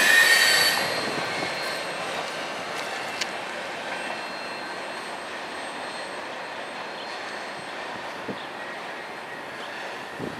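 Freight train wheels squealing shrilly on a curve as the last car goes by, loudest at the start and dropping off within the first second. The rolling rumble and a faint squeal then fade steadily as the train recedes, with a few faint clicks.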